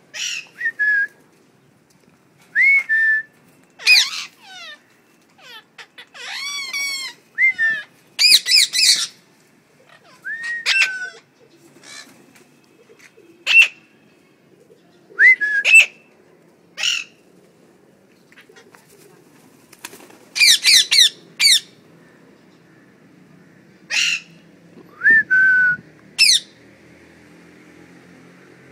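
Pet parrots calling: a scattered string of short upward-sweeping whistles and harsh squawks, with short pauses between them.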